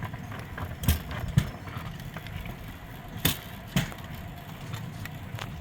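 Steel wheels of a pedal-powered rail bike rolling along old railway track with a steady low rumble. Sharp clacks come in pairs about half a second apart, every two seconds or so, as the wheels cross rail joints.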